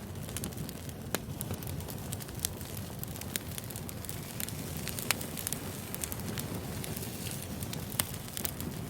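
Burning firewood crackling: a steady low rush of flame with sharp pops scattered through it, the loudest about a second in, around five seconds in and near the end.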